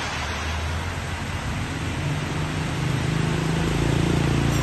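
Engine of a Toyota Land Cruiser hardtop running as it drives off on a wet road, over a steady hiss of rain. The engine hum grows louder from about two seconds in.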